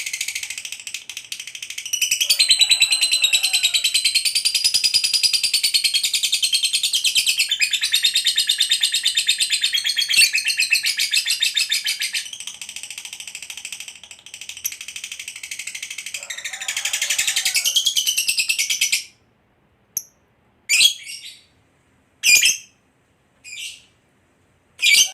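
Lovebird (fighter type) giving a long, very rapid high-pitched chattering trill (ngekek panjang), its pitch wavering, for nearly twenty seconds before it cuts off abruptly. It then gives five short, sharp separate calls.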